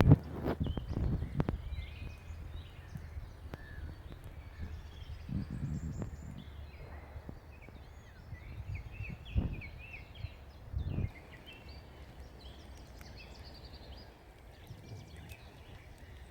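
Songbirds chirping and trilling. A few dull low thuds come near the start and again about 9 and 11 seconds in.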